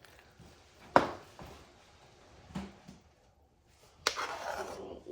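A sharp knock about a second in, a softer knock a moment later, then about a second of rustling or scraping near the end.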